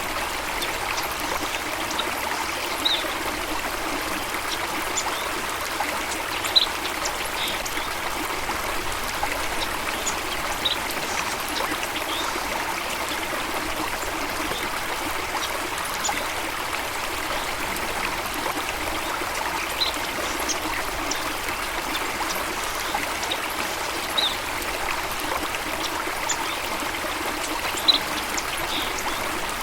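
Stream water flowing and trickling steadily, with a few short high-pitched blips scattered through.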